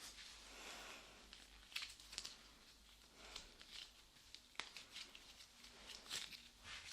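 Faint, close-up sticky crackling of light clay being pressed and pulled on a microphone's ear, with a few sharp clicks.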